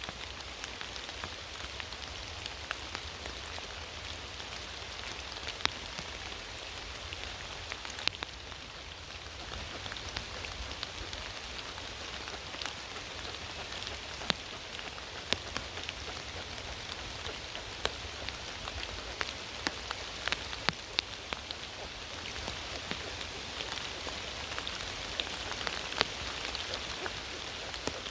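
Steady rain, with scattered sharp ticks of drops landing close by.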